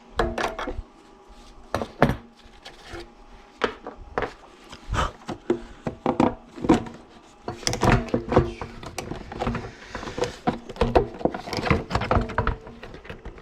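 Irregular knocks, clinks and light scrapes of hard parts and hand tools being handled and set down on a work surface.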